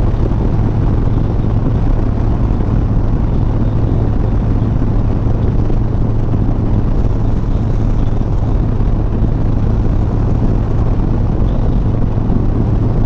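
Harley-Davidson Sport Glide's Milwaukee-Eight V-twin running steadily at cruising speed, a constant low hum under a steady rush of road and wind noise.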